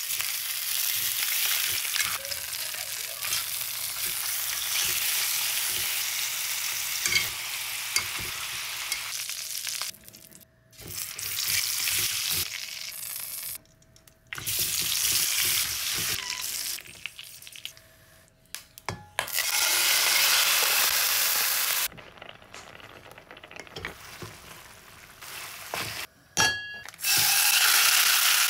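Sausages and meat sizzling as they fry in hot oil in a stainless steel pan, with occasional clicks of tongs against the pan. The sizzle breaks off abruptly and resumes several times.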